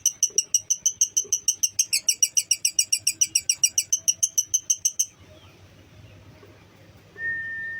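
Lovebird giving its long, rapid chattering trill ('ngekek'), a fast even run of high chirps at about seven a second that drops slightly in pitch about two seconds in and cuts off suddenly about five seconds in. Near the end a single steady high whistle-like tone starts.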